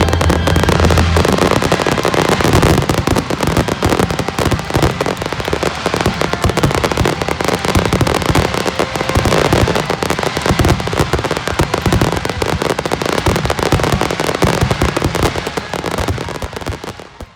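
Aerial fireworks going off in a dense, continuous barrage of bursts and crackles, the many shots overlapping, fading out and stopping near the end.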